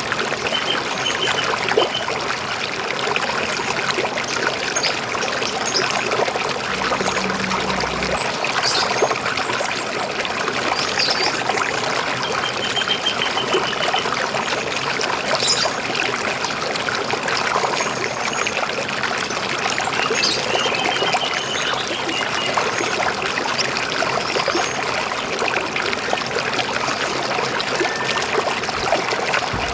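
River water flowing and trickling steadily, a dense bubbling rush, with a few short bird chirps and quick trills heard now and then above it.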